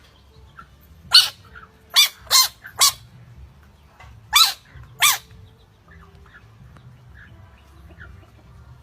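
A dog barking six times: four sharp barks in quick succession, then two more after a short pause.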